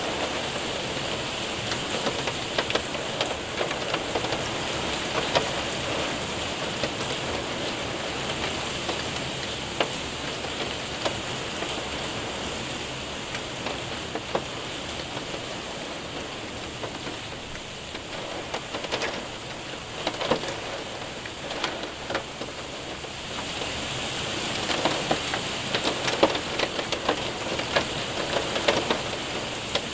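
Hail and rain hitting a window and roof: a steady rain hiss with many sharp ticks of hailstones, thinning out midway and growing dense again near the end.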